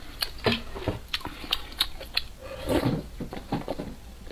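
Close-up eating sounds: chewing and mouth smacks while eating instant noodles, a string of short sharp clicks with a longer wet burst about three seconds in.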